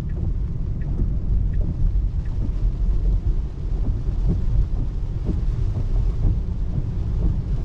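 Steady low rumble of tyres on a wet road heard inside an electric car's cabin in the rain, with scattered faint ticks of raindrops.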